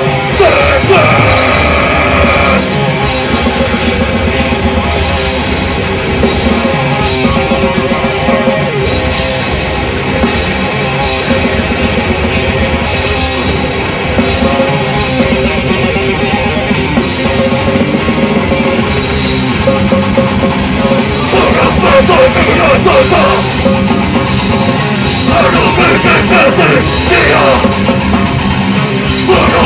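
Heavy metal band playing loud and without a break, with distorted guitars and a drum kit.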